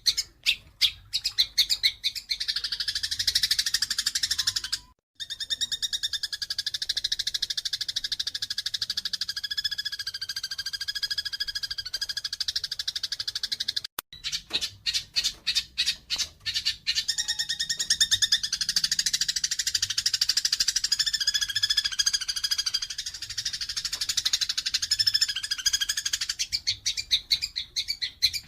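Eurasian tree sparrows chirping in a fast, dense stream of agitated calls, the sound of sparrows fighting. The chirps come as separate notes at first, run together into an unbroken chatter, and break off suddenly twice.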